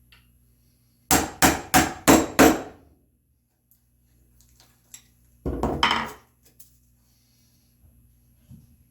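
Wooden mallet striking a chisel chopping a mortise in red oak: five quick sharp blows, about three a second, then a short rough scraping noise of the chisel a few seconds later.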